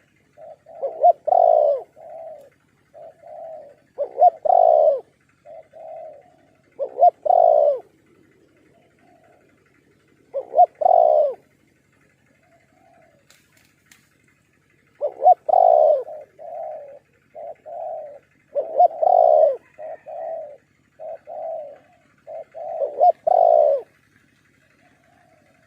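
Spotted dove cooing: repeated phrases of low, round coo notes, each loud coo set among shorter softer ones, with a pause of a few seconds midway.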